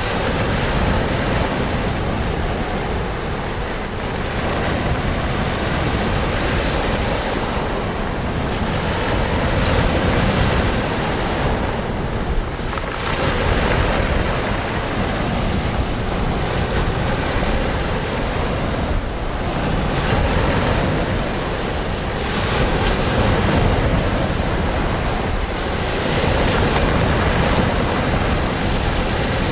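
Ocean waves washing onto a shore, a continuous rushing surf that swells and eases every few seconds, with a wind-like hiss.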